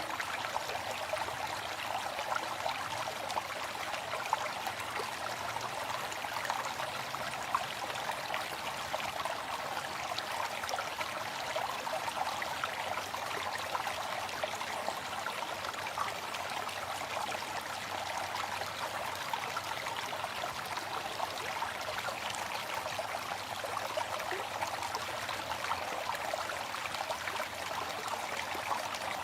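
Waterfall: water falling and splashing in a steady, even rush that does not change, with little deep rumble.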